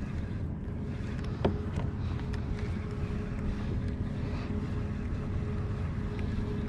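Steady low wind rumble on the microphone over open water, with a faint steady hum underneath and a single sharp click about one and a half seconds in.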